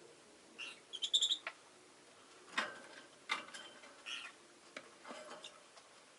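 Rosy-faced lovebird giving a quick run of short, high chirps about a second in, followed by a few sharp clicks and another softer chirp.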